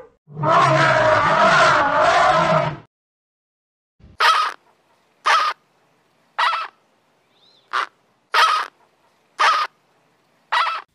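An elephant calls once for about two and a half seconds. After a short silence come seven short flamingo calls, spaced about a second apart.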